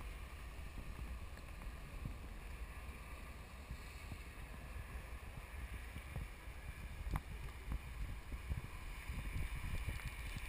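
Wind buffeting the microphone in gusts: a low, fluctuating rumble, with one brief click about seven seconds in.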